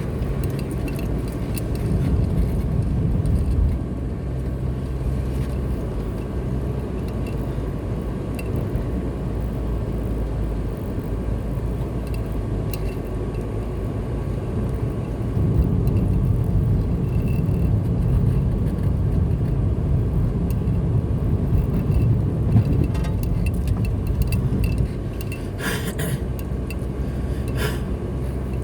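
Car driving along a road, a steady low rumble of engine and tyres that grows louder for a couple of stretches. Two short clicks or rattles come near the end.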